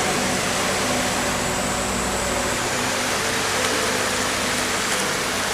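Steady rushing of flowing spring water, with a faint low steady hum beneath it.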